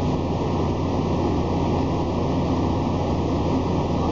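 Steady low hum of a MARC commuter train standing still at a station, with no change in pitch or loudness.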